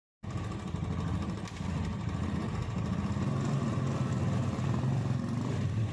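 Royal Enfield Bullet's single-cylinder engine running steadily with a low rumble.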